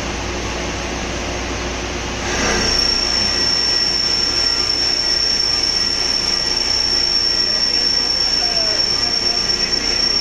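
CNC vertical machining (VMC) drilling machine running with a steady mechanical hum. About two seconds in it gets louder and a steady high-pitched whine sets in and holds.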